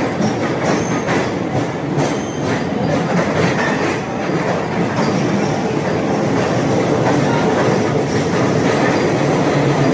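Passenger train's coaches rolling through the station, wheels clattering over the rail joints over a steady loud rumble.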